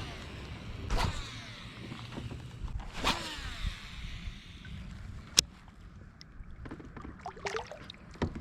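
Paddle strokes in water from a small boat or kayak: two splashing strokes about two seconds apart, with water dripping after them. A single sharp click comes midway.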